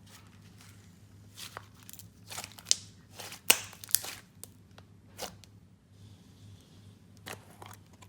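Irregular sharp crackles and crinkles of something being handled by hand, with a cluster of louder snaps a few seconds in.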